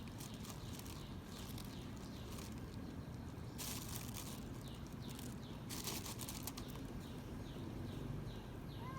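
A stray cat eating the food put down for it, with crackly crunching and rustling now and then. Small birds chirp in the background, short falling chirps about twice a second in the second half.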